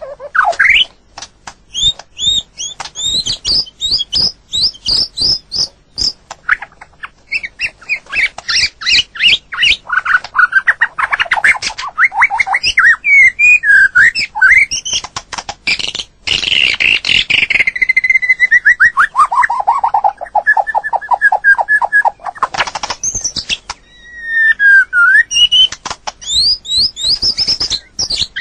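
White-rumped shama singing: a long, varied run of rapid whistled notes and sweeping phrases, with one long stream of quick notes stepping down in pitch a little past the middle and a falling whistle near the end.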